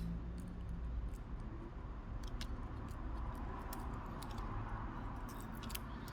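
A few scattered light clicks and taps of small repair tools handling phone parts, over a steady low background hum.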